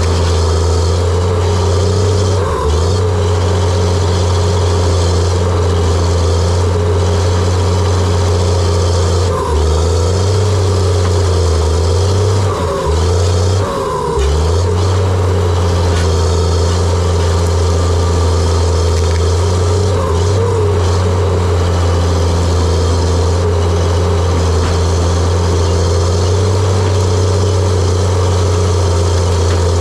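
Diesel engine of a John Deere 700J-II crawler dozer running steadily under load, its note dipping briefly a few times.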